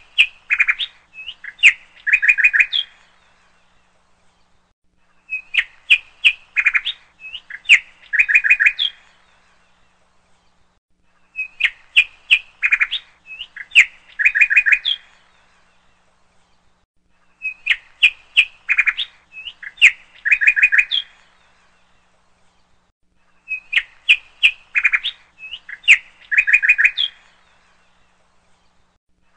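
Birdsong: a phrase of quick, high chirping notes repeated the same way about every six seconds, like a looped recording, with near silence between phrases.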